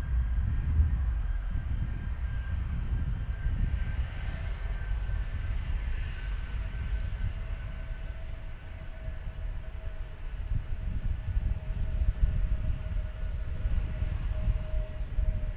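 Jet aircraft engines running: a steady low rumble with a thin, steady whine over it.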